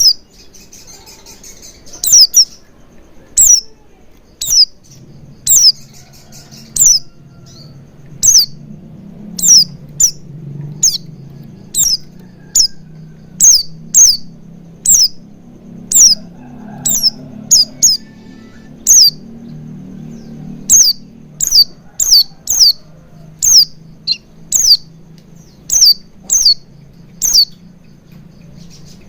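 White-eye (pleci) giving a long series of short, sharp, downward-sliding chirps, one about every half-second to a second, played as a lure call.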